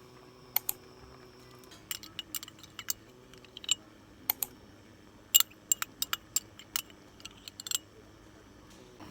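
Irregular sharp clicks and light taps of cooking utensils and ingredient containers being handled, some in quick clusters, over a faint steady hum.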